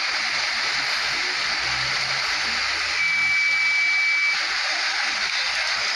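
Steady, dense rush of water noise, with a single thin, steady high tone for over a second midway.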